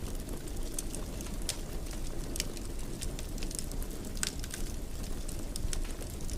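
Wood fire burning in a fireplace: a steady low rumble of flames with frequent irregular crackles and sharp little pops.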